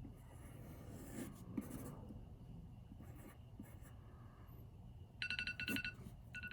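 Pen strokes scratching on paper during a quick sketch. About five seconds in, an electronic timer alarm goes off in rapid beeps, in a run, a brief pause, and a second run, marking the end of a 10-second drawing time.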